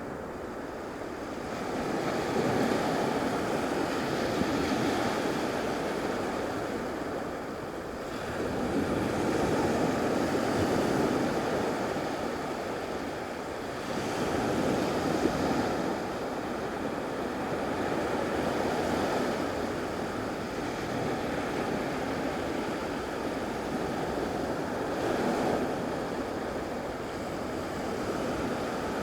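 Gulf surf washing onto a sandy beach, the noise of the waves swelling and falling back in slow surges every five seconds or so.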